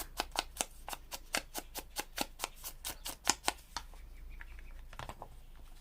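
Distress stain dauber being dabbed onto paper: a quick run of light taps, about six a second, that stops about four seconds in.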